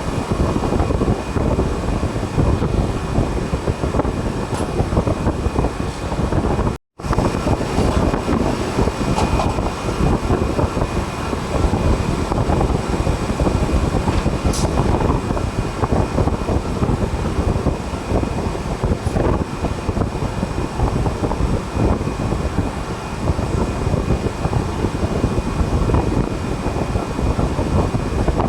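Steady running noise of a display chiller's refrigeration unit, its compressor and condenser fan running. The sound cuts out completely for a moment about seven seconds in.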